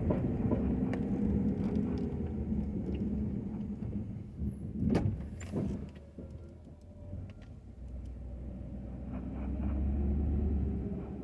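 Ford F-250 pickup's engine running under load, its low hum swelling at the start and again near the end and easing off in between, with a sharp knock about five seconds in.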